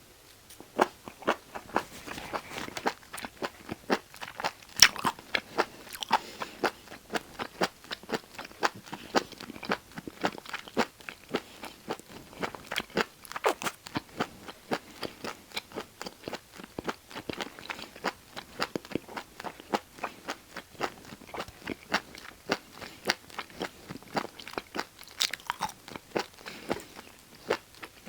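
Close-miked chewing of food: a rapid run of crunchy, wet mouth clicks, several a second, starting about a second in.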